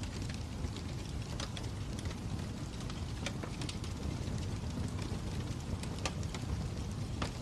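Wood fire crackling: a steady low rumble with irregular sharp pops and snaps scattered throughout.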